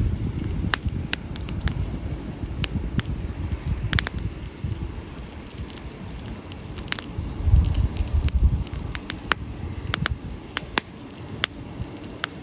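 Wood campfire crackling: irregular sharp pops and snaps of burning logs over a low rumble, which swells briefly about two-thirds of the way through.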